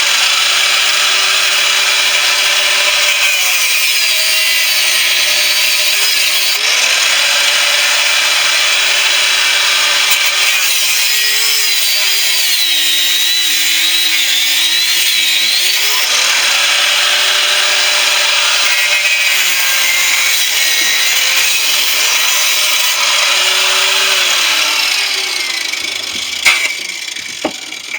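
Disc-type power cutter, an angle grinder with a cut-off disc, cutting into the housing of a central air conditioner compressor. It makes a steady harsh grinding, and its motor pitch sags and recovers as the disc bogs under load. It winds down near the end, followed by a sharp click.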